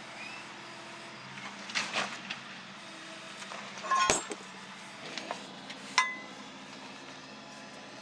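Metal tools and suspension parts clinking and knocking: a few sharp metallic strikes, the loudest about four and six seconds in, each ringing briefly.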